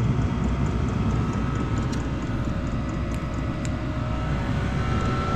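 Diesel-fuelled shop heater running steadily: an even rumbling rush of burner and fan with a thin steady whine that grows stronger near the end.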